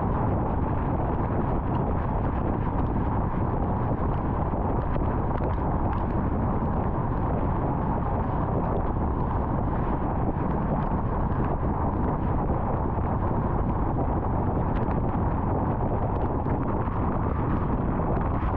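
Steady tyre and wind noise of a car driving at highway speed.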